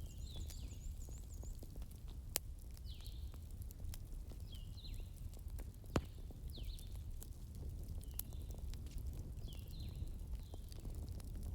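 Wood campfire crackling over a steady low rumble, with sharp pops of burning logs; the two loudest come about two and a half and six seconds in. Short high chirps repeat throughout over the fire.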